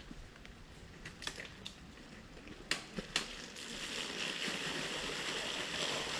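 Tyres of an electric enduro bike rolling over a forest trail: scattered sharp cracks and crunches of twigs and gravel, then from about halfway a steady hiss of tyre noise that grows louder.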